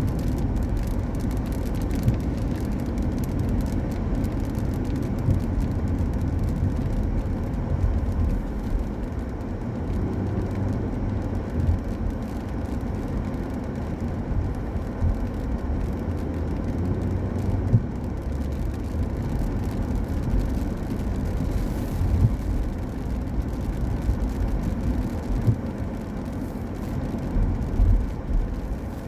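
Car driving on a wet road: a steady low road rumble, with a few brief knocks.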